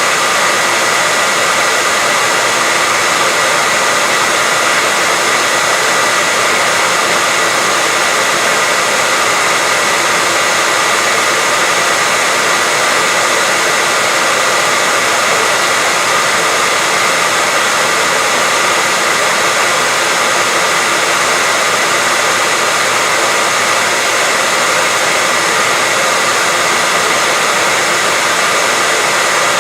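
Steady white noise: an even, unbroken hiss weighted toward the high end, with a faint steady tone running through it.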